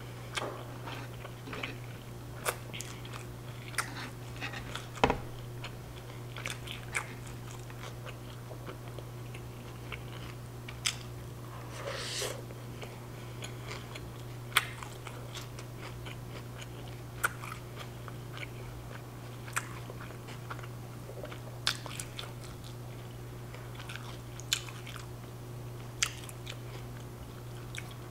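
A person chewing a mouthful of al pastor taco at length, with scattered small wet clicks and crunches over a steady low hum; the pork is hard and dry, which is why the chewing goes on so long.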